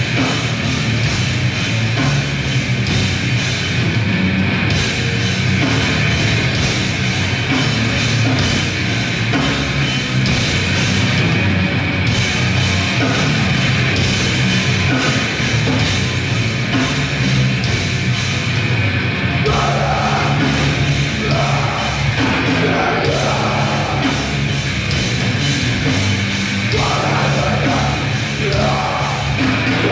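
Grindcore band playing live at full volume: distorted guitar, bass and drum kit in a dense, unbroken wall of sound, heard through an amateur recording.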